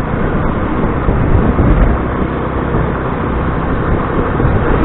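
Motor scooter riding along, its engine running under steady, rumbling road noise.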